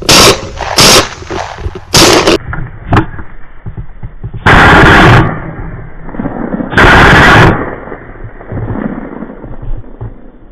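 Shotgun shots fired at flushing quail: several loud, sudden blasts in a few seconds, the later ones with a longer tail, and a smaller pop between them. Two birds are brought down, a double.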